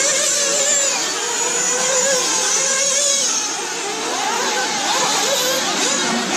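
Several RC race cars running together, their small high-revving motors whining and rising and falling in pitch as they accelerate and brake around the track.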